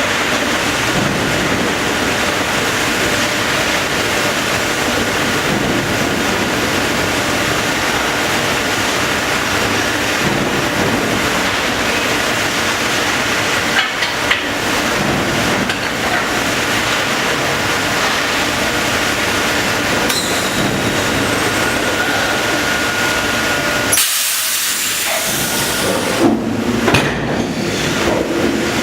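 Production forging line for lower receivers running: a steady, loud machine hiss and rumble, with a few sharp clanks about halfway through. Near the end a sudden louder hiss cuts in, followed by several knocks.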